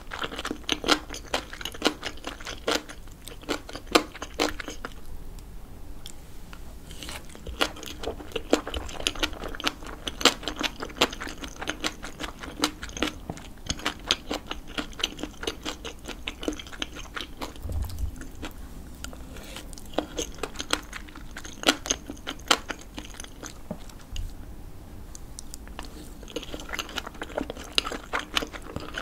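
Close-miked chewing of a mouthful of bibimbap with the lips closed: a fast run of small wet clicks and crackles, easing off briefly about five seconds in and again near twenty-five seconds.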